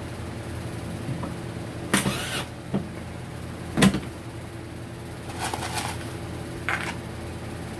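A few sharp knocks and clatters from objects being handled, with a short scraping rustle, over a steady low hum.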